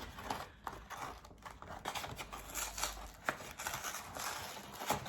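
A cardboard box being handled and pulled at while someone tries to open it, with faint rustling and a few sharp clicks and taps.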